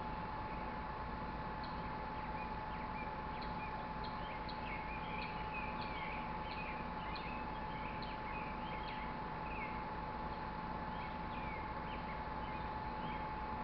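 Small birds chirping and twittering in many short, quick calls, over a steady outdoor hiss and a constant thin hum.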